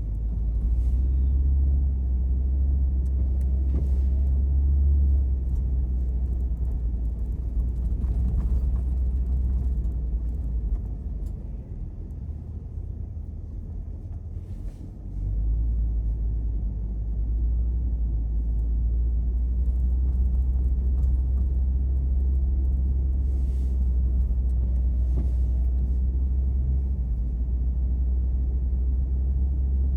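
Deep, steady rumble of a car driving, heard from inside the cabin. It eases for a few seconds about halfway through, then comes back abruptly.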